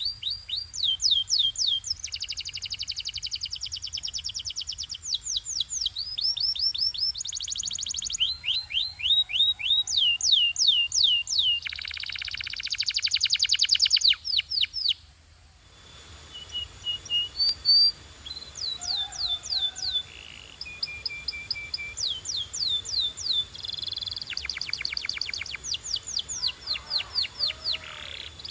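Canary singing: rolling trills of rapid downward-sweeping high notes, with a dense buzzy trill just before the middle, a brief pause, then more trilled phrases.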